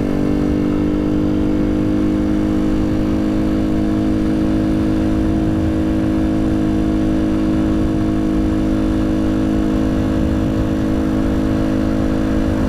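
Janus Halcyon 250 motorcycle engine running at a steady pitch while cruising at constant speed, with wind and road noise underneath.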